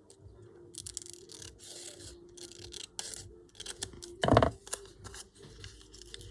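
Paper and card being handled: irregular rustling and rubbing, with one louder knock about four seconds in, over a faint steady hum.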